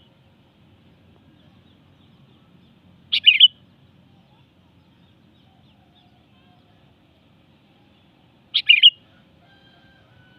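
Sooty-headed bulbul (kutilang) giving two short, bright chirping calls about five seconds apart, each under half a second long.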